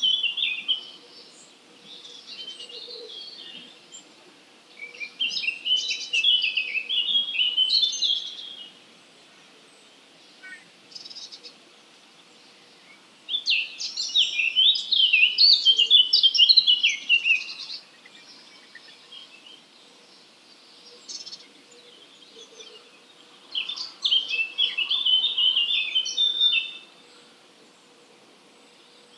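Songbird song in separate phrases of rapid, high twittering notes, each a few seconds long, coming about five times with pauses between. A faint steady hum lies underneath.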